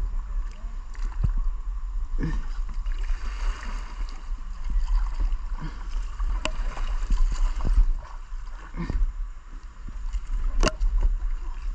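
River water splashing and gurgling around kayaks being paddled, with a few sharp knocks, the loudest about ten and a half seconds in.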